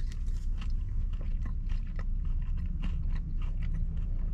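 A man chewing a mouthful of buffalo chicken poutine (fries, cheese curds, gravy and chicken): a run of small wet mouth clicks, over a low steady hum.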